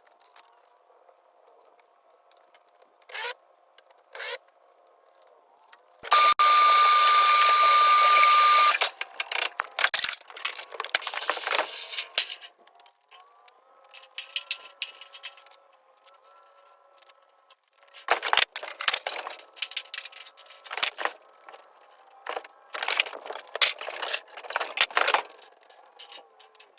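Sped-up gutter installation work: scattered knocks and clicks of handling and fastening gutter parts over a faint steady hum, with a power tool running loudly and steadily for about two and a half seconds about six seconds in.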